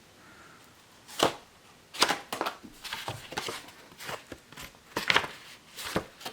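Old paper manuals, cards and loose pages being handled on a table: a string of irregular sharp rustles and taps as booklets are picked up, flipped and set down, with the closest ones about two seconds in and again around five seconds in.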